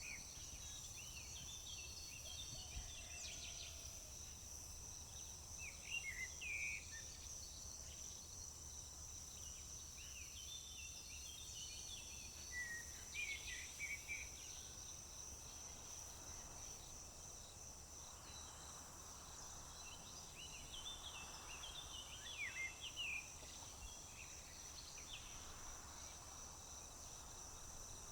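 Several songbirds singing short, chirpy phrases every few seconds over a steady, high-pitched drone of insects such as crickets, with a faint low rumble underneath.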